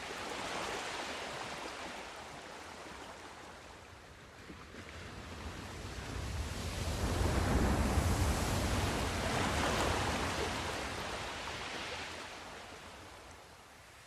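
Sea surf: waves breaking and washing in. A smaller wash at the start fades away, then a larger wave builds to its loudest about halfway through and slowly recedes.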